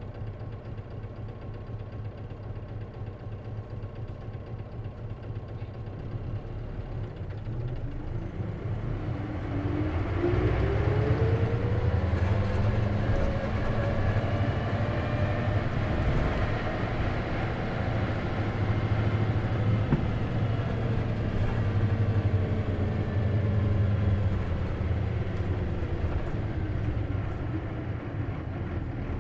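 Isuzu KC-LV380N city bus heard from inside with its manual gearbox: the engine runs low at first, then the bus pulls away about a quarter of the way in, with a whine that rises in pitch as it speeds up and then holds while it runs on, easing off near the end. The whine is the odd noise this bus is known for, which the uploader suspects may be a symptom of the manual transmission.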